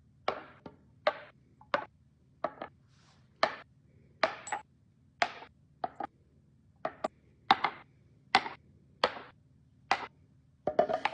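A series of sharp knocks and clunks of hard objects, about one or two a second and unevenly spaced, some with a brief ring, over a faint steady hum.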